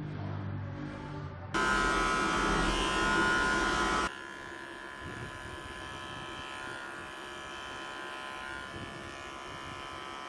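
Electric hair clippers buzzing steadily, louder for about two and a half seconds from a second and a half in, then running on more quietly.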